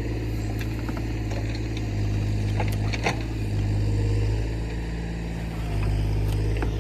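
Excavator's diesel engine running steadily, its level rising and easing a few times as it works. A few sharp knocks come about three seconds in.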